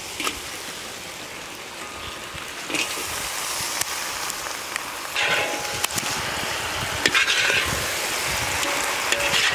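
Boiled quail frying in hot oil in a large iron wok, with a steady sizzle and a few sharp pops. The sizzle grows louder about five seconds in.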